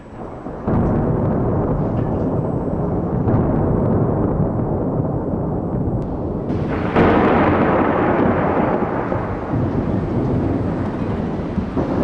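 Thunder: a loud rumble breaks in under a second in and rolls on, then a second, sharper clap about seven seconds in rumbles and slowly fades.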